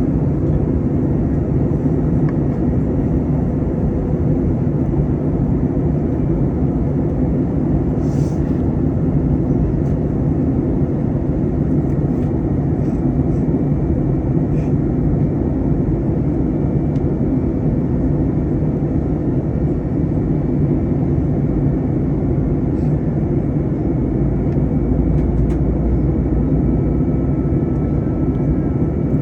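Steady cabin roar of an Airbus A321 airliner in descent: engine and airflow noise, low and even throughout, with a few faint clicks.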